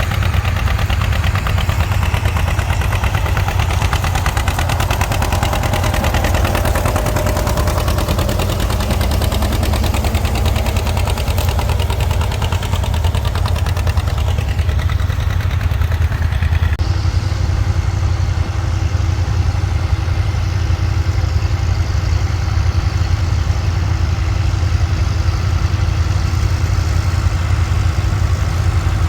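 Tractor engine running steadily with a deep, even pulse. About seventeen seconds in the sound changes abruptly, turning duller, with a steady hum.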